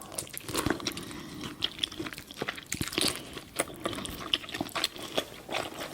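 Close-miked eating of spicy boiled seafood: biting and chewing, with irregular crunches and wet clicks and smacks.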